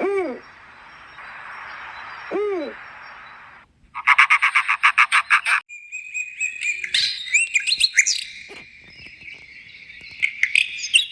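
A run of short animal calls: two brief arched calls over a steady hiss, then a rapid rattling trill, then birds chirping with quick rising and falling whistled notes through the second half.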